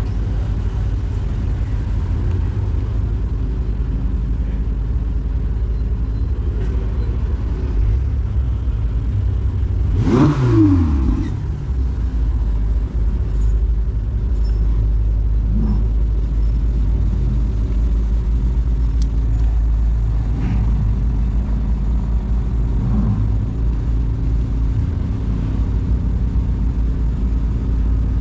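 Ferrari V8 engines running at low speed as sports cars roll slowly past one after another, a steady low rumble. About ten seconds in, one engine gives a short rev that falls away.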